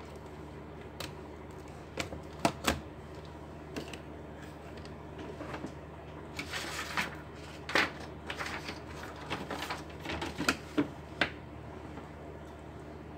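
Irregular sharp clicks and taps of hard laptop parts being handled and fitted, with a brief scraping rustle about halfway through.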